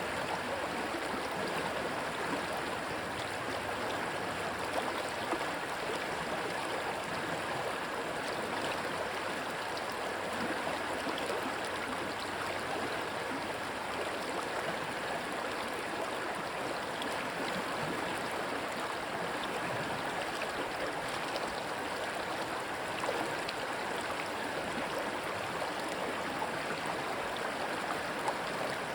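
Rushing stream water, a steady even rush with small splashes and gurgles now and then.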